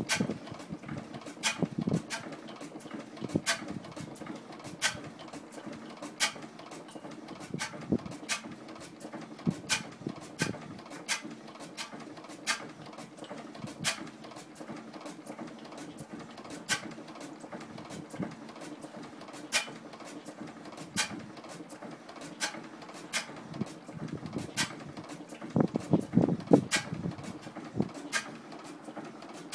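1912 Crossley G112 stationary gas engine running, with a sharp click or knock about once a second at uneven spacing over a steady low hum. About 26 s in there is a short run of heavier knocks.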